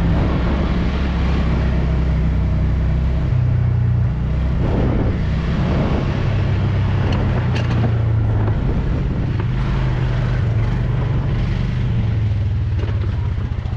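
A mid-1990s Club Car golf cart driving along a woods trail, its motor running steadily, with scattered knocks and rattles from the ride.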